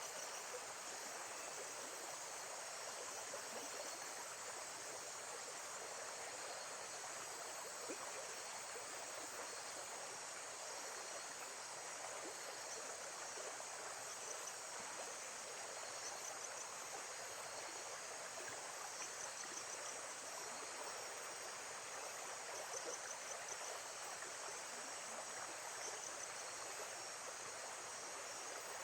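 Steady lake-side water sound with insects chirping in short, high trills that come and go, more often in the second half.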